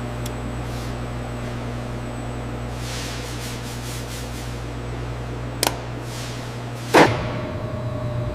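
Steady low hum of running factory machinery, with a sharp click about five and a half seconds in and a louder knock about a second later.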